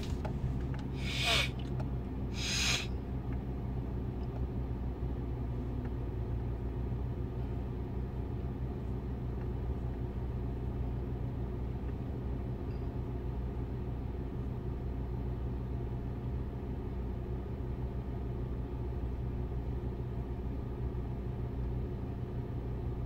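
Car engine running steadily, heard from inside the cabin as a low rumble and hum. Two short hisses come about one and three seconds in.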